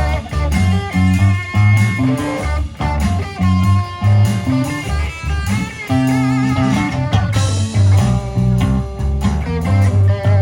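Live blues-rock band playing an instrumental passage: electric guitar over a repeating bass line, with drums. About eight seconds in, a low note is held under the guitar.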